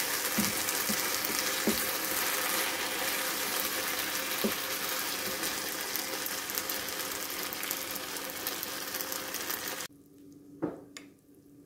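Rice noodles and vegetables sizzling in a hot frying pan as a wooden spatula stirs and tosses them, with a few light knocks of the spatula on the pan. The sizzling cuts off suddenly near the end, followed by a couple of short clicks.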